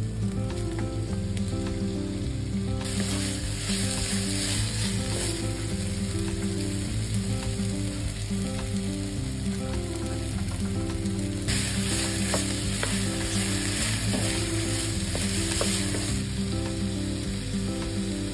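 Julienned potatoes and celery sizzling in hot oil in a frying pan, stirred with a wooden spatula. The spatula scrapes and taps against the pan. The sizzle grows louder about three seconds in and eases near the end, over soft background music.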